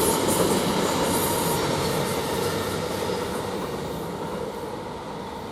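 Elizabeth line Class 345 electric train departing, its running noise fading steadily as it pulls away.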